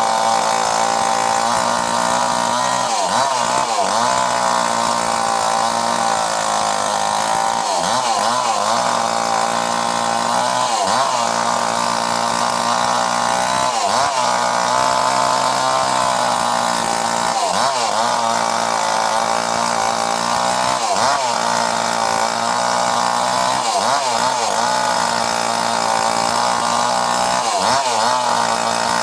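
Mini chainsaw running steadily at high speed, its pitch dipping briefly and recovering every few seconds.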